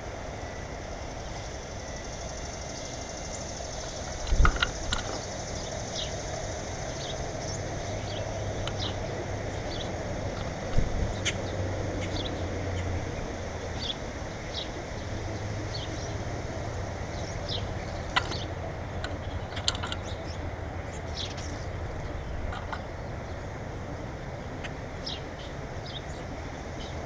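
Small birds giving short, scattered chirps over a steady low hum. Two sharp knocks, the loudest sounds, come about four and eleven seconds in.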